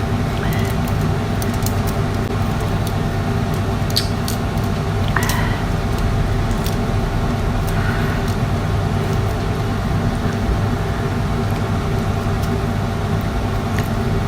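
Steady low machine hum, like an air conditioner or a fan, with a few scattered soft clicks and taps from hands handling prawns while eating.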